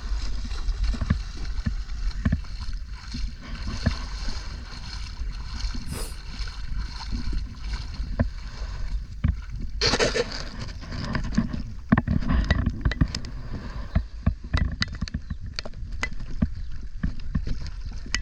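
Water splashing and lapping around a kayak on the sea, with a louder splash about ten seconds in, over a low rumble of wind on the microphone.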